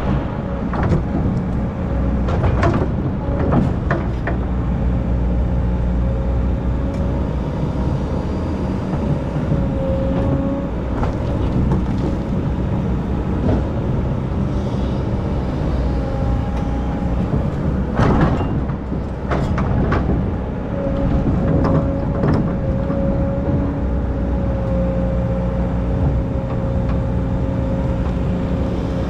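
Diesel engine of an excavator running steadily under load, with a steady whine and scattered knocks and scrapes, the loudest about 18 seconds in.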